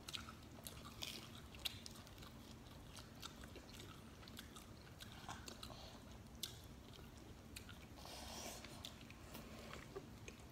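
Faint biting and chewing of pizza, with scattered small crunches and mouth clicks. There is a short, soft noise about eight seconds in.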